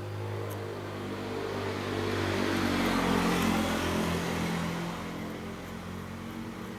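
A motor engine running with a steady hum, growing louder to a peak about three seconds in and then fading again, like a vehicle going by.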